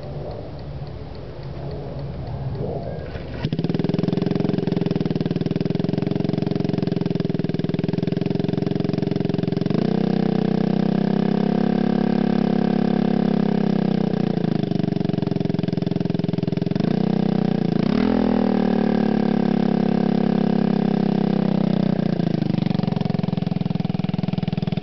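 Honda Ruckus's small single-cylinder four-stroke scooter engine breathing through a welded-on Briggs & Stratton lawnmower muffler: it starts suddenly about three seconds in, then idles steadily. The idle speed rises for a few seconds around the middle and settles back, with one quick short rev about three-quarters of the way through.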